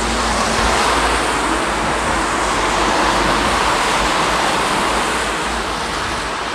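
A vehicle passing on a wet road: tyre hiss on the wet surface swells and then slowly fades.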